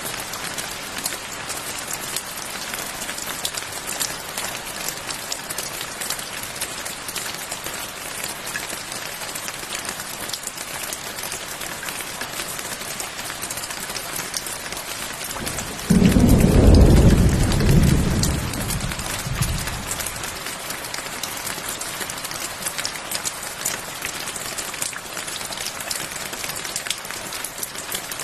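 Steady rain falling. A little past halfway a clap of thunder breaks in suddenly as a loud low rumble, rolls for a couple of seconds and fades away under the rain.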